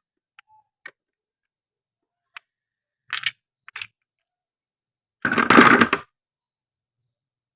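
Toy fruit being cut with a toy knife: a few light clicks and taps, two short scrapes around three seconds in, then a louder rasping tear lasting under a second about five seconds in.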